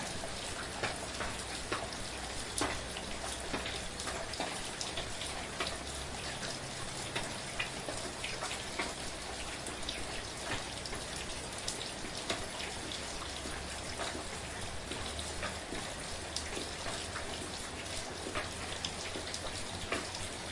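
Steady, gentle rain falling, with a constant hiss and many distinct drops ticking on a surface close by.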